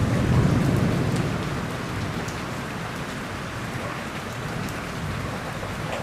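Steady heavy rain with the tail of a thunder rumble dying away over the first two seconds.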